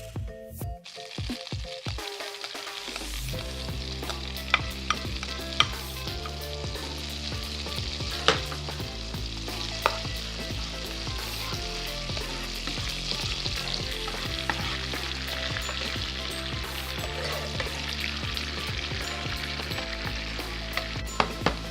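Food sizzling as it fries in a pan, starting about a second in, while it is stirred with a utensil that knocks sharply against the pan a handful of times.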